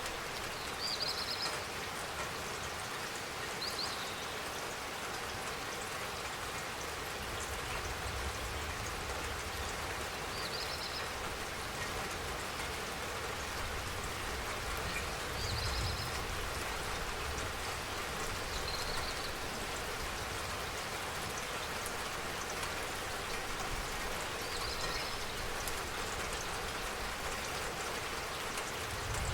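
Steady spring rain pattering down, with brief high chirps every few seconds and a low rumble swelling now and then.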